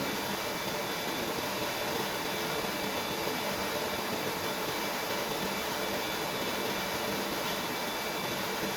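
Industrial reverse-osmosis water filter system running during its test run: a steady hiss with a faint constant hum from its pump and the water moving through it.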